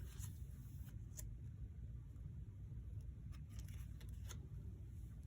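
Faint rustles and light ticks of handmade paper journal pages being handled and turned, over a low steady hum.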